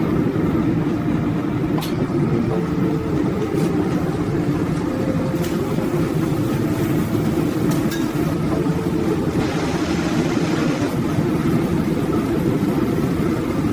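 Steady low roar of a gas burner heating glass, with a few faint clicks and a brief higher hiss about ten seconds in.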